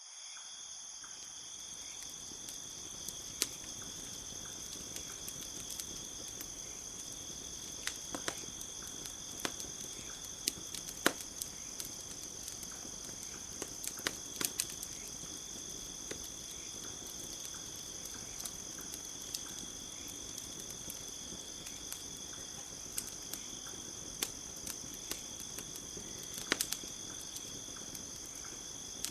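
Campfire crackling with scattered sharp pops over a steady high chorus of crickets.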